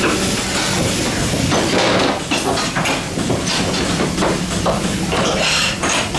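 Goat milking parlour machinery: hissing with irregular metallic clanks and clatter.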